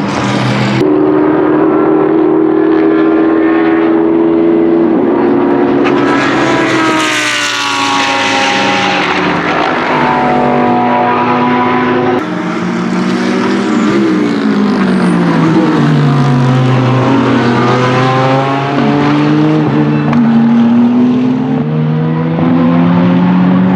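Lamborghini Huracan GT3 Evo's naturally aspirated V10 racing engine at full race speed. Its pitch holds, falls and climbs again through gear changes as the car passes. The sound changes abruptly just after the start and about halfway through, like cuts between separate passes.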